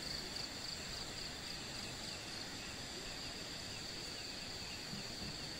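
Forest insects calling at night in a steady high chirr, over the steady rush of a river in the distance.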